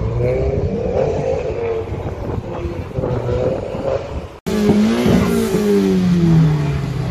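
Car engines revving, their pitch rising and falling. After an abrupt cut about four seconds in, a single engine revs and then falls slowly in pitch.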